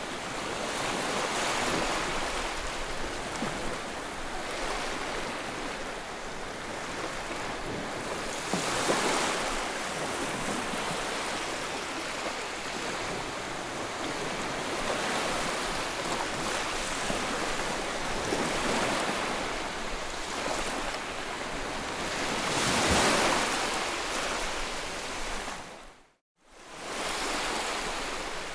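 Ocean surf: waves breaking and washing in, the hiss swelling and easing every few seconds. Near the end the sound cuts out abruptly for a fraction of a second, then resumes.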